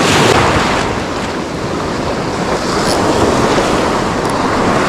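Ocean surf washing in around the shore, with wind buffeting the microphone; the wash is loudest just after the start and swells again near the end.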